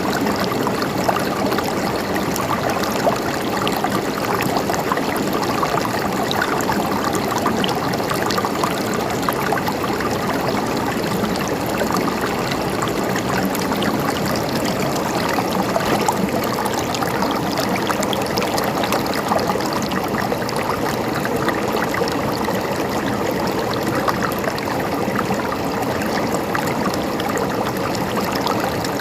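Stream water gurgling and trickling steadily, a continuous rush flecked with tiny splashes.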